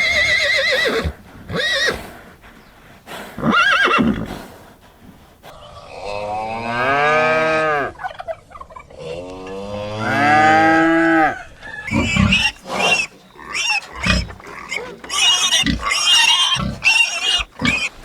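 A run of farm animal calls: short calls at first, two long, arching calls in the middle, then a quick string of shorter, higher calls near the end.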